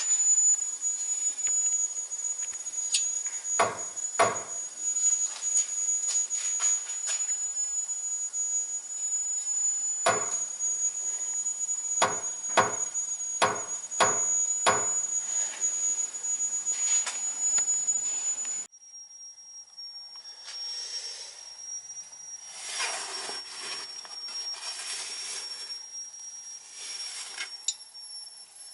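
A series of sharp knocks over a steady high whine: a pair, then six in quick succession, followed by softer scattered clatter.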